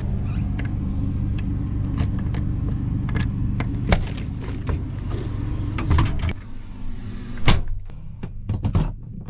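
A vehicle engine runs steadily and then shuts off about six seconds in. Several sharp knocks and clicks follow near the end.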